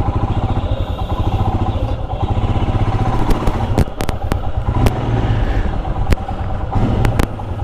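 Motorcycle engine idling with a steady, fast pulsing rumble. Several sharp clicks sound over it in the second half.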